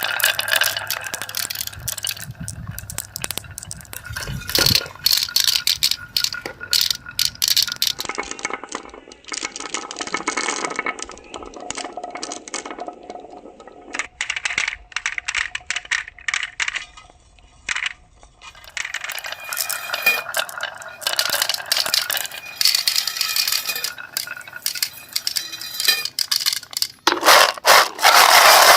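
Irregular rattling and clinking of small hard objects knocking together, in quick uneven clicks.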